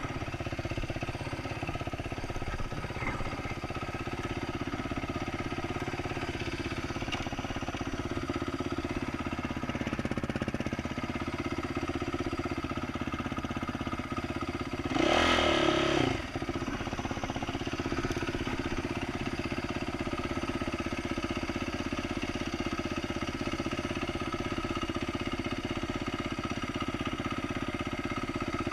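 2012 Yamaha YZ450F dirt bike's single-cylinder four-stroke engine, with an aftermarket exhaust, running steadily at low trail-riding revs. About halfway through it revs up sharply once for about a second, then drops back.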